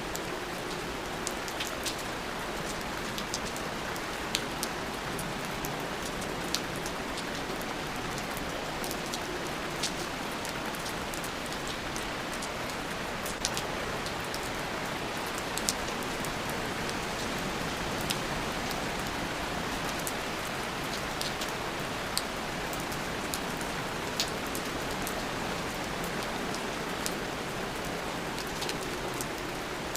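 Steady rain falling, with many sharp ticks of single drops hitting a surface scattered through it.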